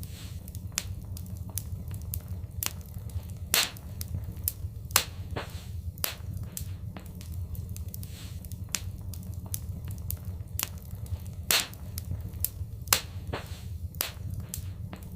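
Fireplace fire crackling, with sharp irregular pops over a steady low rumble of the flames; a few louder pops stand out.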